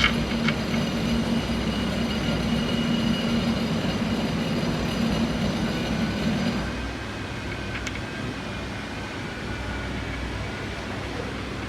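A steady machine hum with several held tones, which drops away about seven seconds in and leaves a quieter hum. A brief click near the start and another about eight seconds in.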